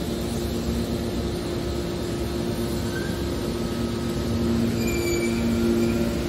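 Hydraulic scrap-car baler running: a steady machine noise with a low two-tone hum, and a few brief faint high squeals from about halfway on.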